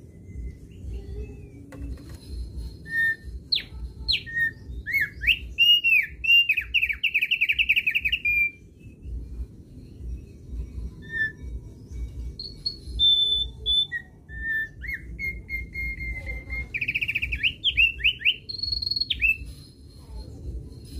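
Thick-billed white-eye singing two bursts of song, each a run of sliding whistled notes that ends in a fast trill, with a pause of several seconds between them.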